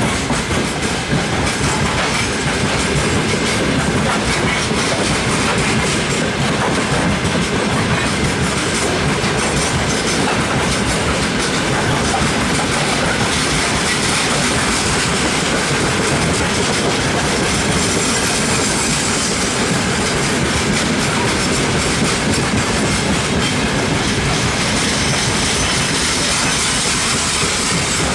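Freight train of open-top gondola wagons rolling past, wheels clattering steadily over the rail joints.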